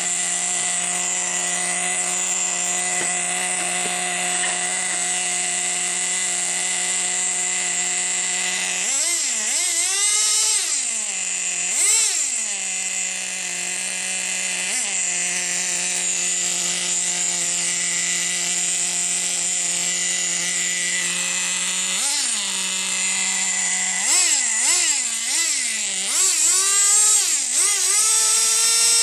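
Nitro RC truck's glow engine idling steadily with a high, buzzing pitch, fitted with a fresh glow plug. It is revved up and back down several times: single throttle blips about a third of the way in, about halfway and about three-quarters in, then a quick run of repeated revs near the end.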